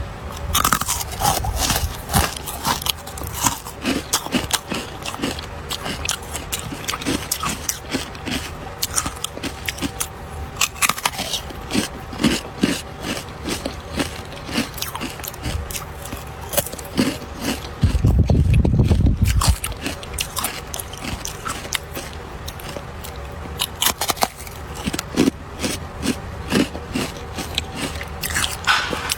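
Ice being bitten and chewed close to the microphone: dense, irregular cracking and crunching throughout, with a louder, deeper burst lasting over a second about eighteen seconds in.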